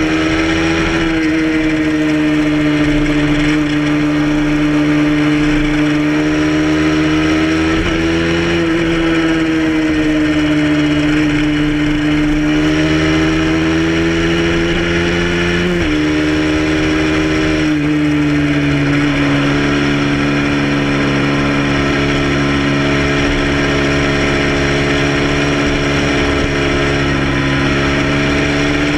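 Motorcycle engine running steadily at highway speed, heard from a camera mounted on the bike's tail, under constant wind and road noise. The engine pitch rises and falls gently and steps down sharply about halfway through.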